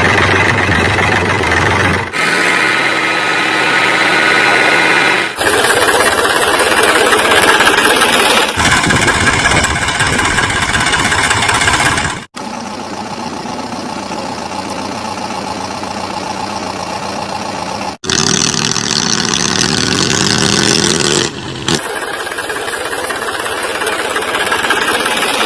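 Machine engines running steadily, in a string of clips joined by sudden cuts, every few seconds, that change the tone and loudness.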